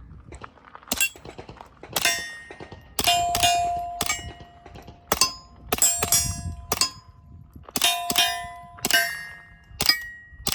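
Steel target plates clanging and ringing as they are hit by subsonic rounds from a suppressed .22 LR Beretta 92 pistol. There are about a dozen hits, some in quick pairs, and each leaves a ringing tone, while the suppressed shots themselves are faint.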